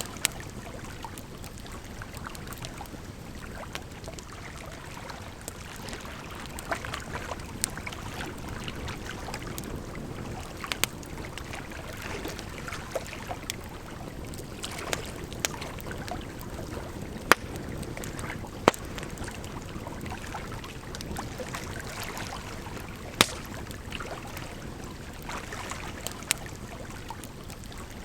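Campfire crackling: sharp, irregular pops over a steady rush of running water, with the loudest few snaps a little past the middle.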